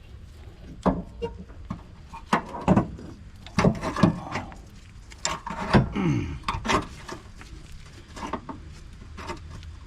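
Irregular metal clanks, knocks and scraping of parts and hand tools being worked to line up and refit a car's sway bar and its stabilizer links.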